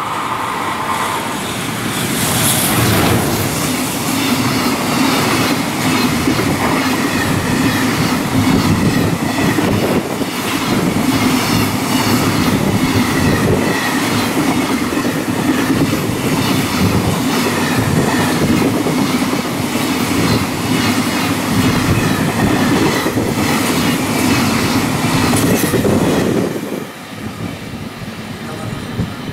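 EF210 electric freight locomotive passing close, followed by a long string of mostly empty container flatcars rolling by. The wheels give a rapid clickety-clack over a steady hum. The noise drops off sharply near the end as the last car goes past.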